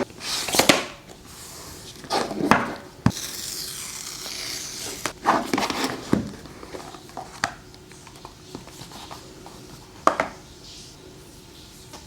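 Handling a smartphone's retail box and packaging: several bursts of rustling and sliding, with a few light taps and clicks. A steady hiss runs from about three to five seconds in.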